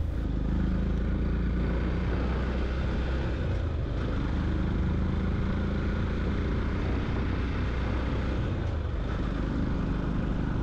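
Motorcycle engine running steadily while under way, with road and wind noise.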